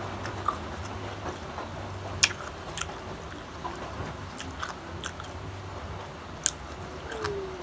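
Close-up crunching of unripe green mango being bitten and chewed, with sharp crisp crunches about two and six and a half seconds in over a steady low hum.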